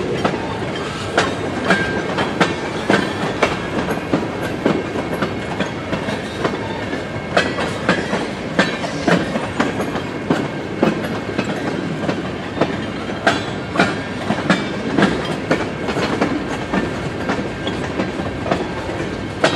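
Freight train of tank cars rolling past: steel wheels clacking over the rail joints, often in quick pairs, over a steady rolling rumble and rattle.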